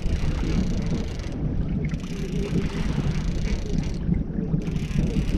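Wind rumbling on the microphone with water and boat noise, a steady low rumble and crackle from a drifting fishing boat.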